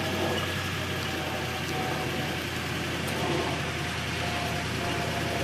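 An engine idling steadily with an even, unchanging low drone.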